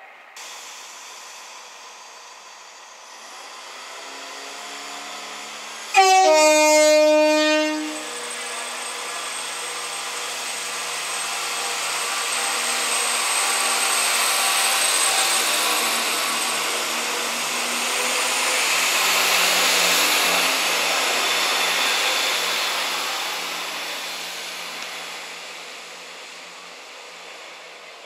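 CrossCountry Class 170 Turbostar diesel multiple unit sounding its horn about six seconds in: a sudden two-note blast, a short higher note and then a lower one held for about a second and a half. Then the unit runs along the platform with a thin high whine, its sound swelling and fading over the next fifteen seconds or so.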